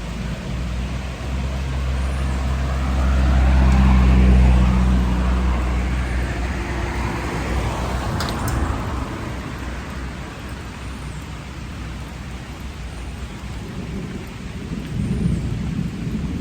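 Rolling thunder over steady rain. The deep rumble builds to its loudest about four seconds in, then slowly dies away under the rain's even hiss.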